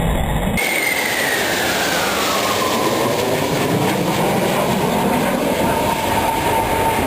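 Military jet flying past, a loud steady roar with an engine whine that falls in pitch over the first few seconds as it passes, then holds steady.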